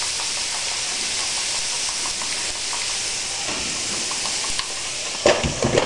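Diced rutabagas sizzling with a steady hiss as they fry in a skillet, stirred with a utensil. A few louder knocks near the end.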